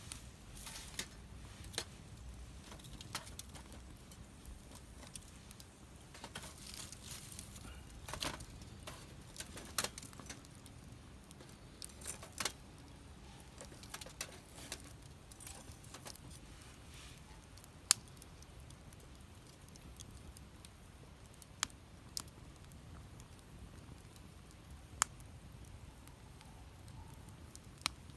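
Wood fire burning, with irregular sharp crackles and pops over a faint low rumble. The crackles are dense in the first half, then give way to a few single, louder pops a few seconds apart.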